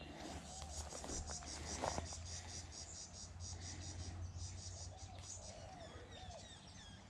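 Insect chirping in a fast high-pitched pulse, about five pulses a second, dying away about five seconds in, with a steady low hum underneath.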